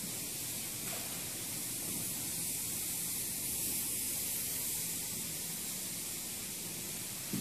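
Steady hiss, strongest in the high frequencies, with no rhythm or breaks.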